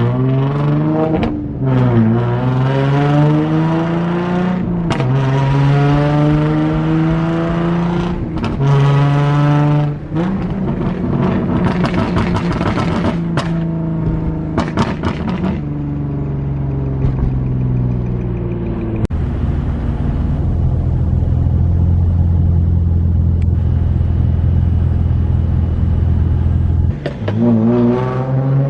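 Nissan 350Z's V6 engine pulling through the gears, its pitch climbing and dropping back at each upshift several times. It then settles into a steady low drone while cruising, before picking up again near the end.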